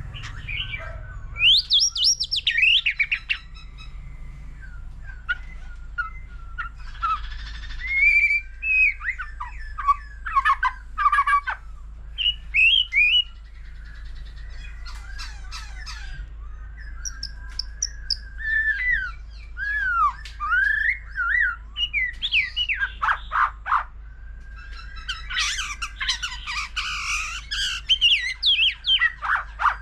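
White-rumped shama singing a varied song: loud whistled phrases that glide up and down, fast trills and harsh notes, delivered in bursts with short pauses between them. A steady low hum runs beneath.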